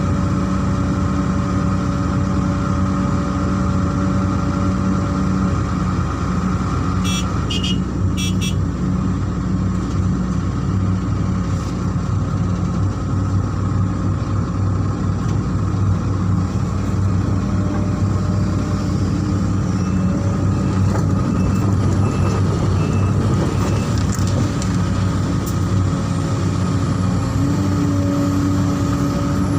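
Heavy diesel machinery engine running steadily with an even low hum, from the excavator or truck at work. A few short clicks sound about seven to eight seconds in.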